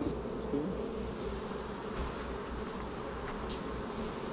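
Honeybees buzzing steadily around an open hive, a dense swarm-like hum.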